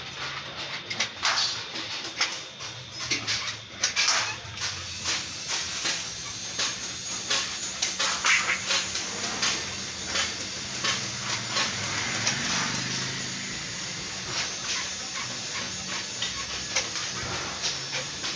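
Sheet metal being worked by hand: irregular sharp taps, clicks and scrapes of metal over a steady low hum.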